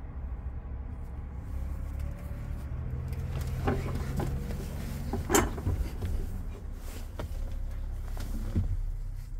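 Diesel truck engine idling with a steady low rumble, with several clunks and knocks like doors or panels being handled. The loudest knock comes about halfway through.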